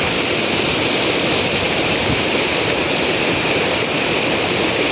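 Steady rushing noise of a large river's flowing water, even and unbroken.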